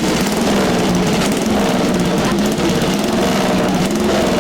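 1937 Rudge race motorcycle's four-valve single-cylinder engine running, its note wavering up and down in pitch.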